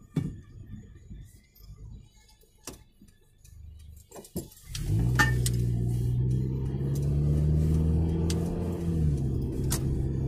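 Car engine heard from inside the cabin. After a few sharp clicks, it comes in suddenly and loudly about halfway through and runs steadily as the car pulls away, dropping slightly in pitch near the end.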